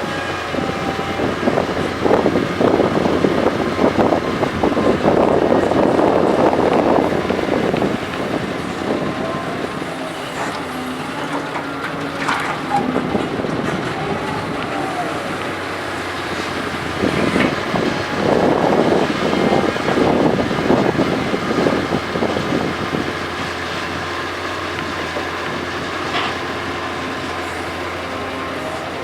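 Doosan DK225LCA hydraulic excavator running steadily at work. Two louder, rougher spells of several seconds each, about two seconds in and again about seventeen seconds in, come as it handles soil. A whine dips and rises in pitch around the middle.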